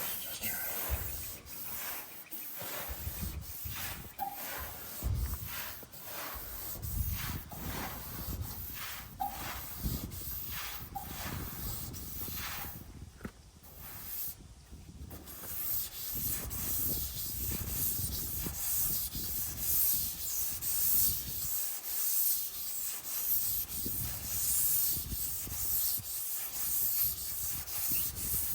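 Hand rubbing or sanding, back and forth in repeated strokes, on the painted sheet-metal side of a 1956 Fargo Town Panel. The top paint is being worn away to bring out old painted lettering underneath. The strokes pause briefly about halfway through, then carry on steadier and denser.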